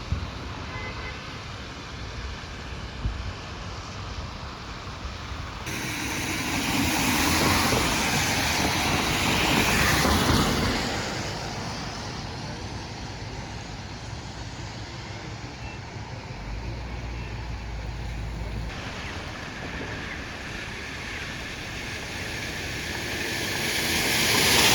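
Road traffic noise with vehicles passing: a steady hiss of traffic that swells twice as a vehicle goes by, once in the middle and again near the end.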